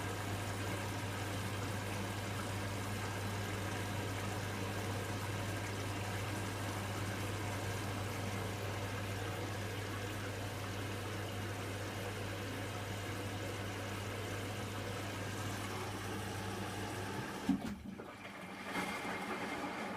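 Hotpoint washing machine pumping out water: a steady humming drain pump with water rushing through. About seventeen seconds in the pump cuts off with a short thump, and the drum starts turning again.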